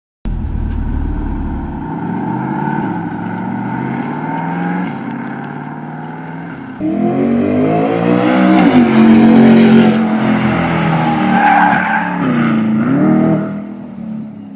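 Devel Sixteen prototype hypercar's engine running at fairly steady low revs, then, after an abrupt cut about seven seconds in, louder as the car accelerates down the runway, its engine note climbing and dropping back twice before fading as it drives away near the end.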